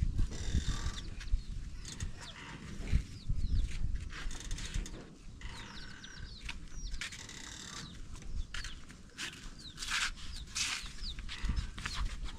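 Birds chirping and calling in repeated short bursts, over a low rumble of wind on the microphone.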